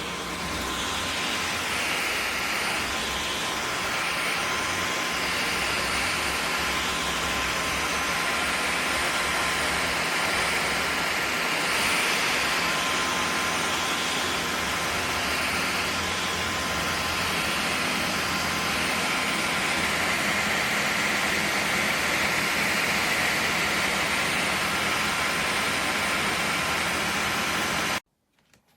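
Dyson Gen5outsize cordless stick vacuum running steadily, a whooshing motor sound with a thin high whine, swelling and easing slightly as it is worked; it shuts off abruptly near the end.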